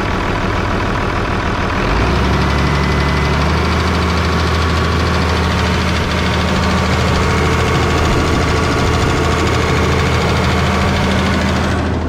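New Holland tractor engine idling, then revved up about two seconds in and held at a steady higher speed, easing back near the end. When revved it makes a ticking noise, which the owner thinks could be something with the valves, maybe a hold-down for the rocker arm assembly.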